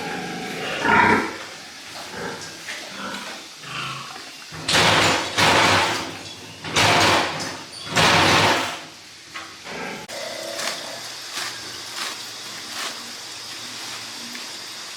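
Pigs calling: four loud cries of about half a second each in the middle, with quieter, shorter sounds before and after.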